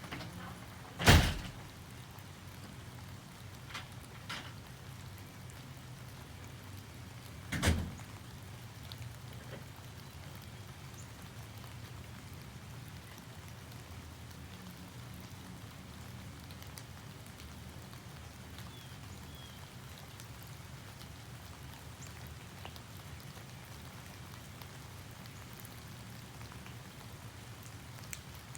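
Steady rain falling and pattering, with two loud sharp thumps, one about a second in and one near eight seconds, and a few fainter knocks between them.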